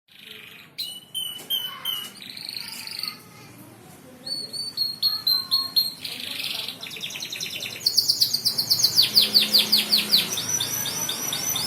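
Domestic canary singing: a fast song of rapid repeated high chirps and rolling trills, with a louder, denser trill starting about eight seconds in.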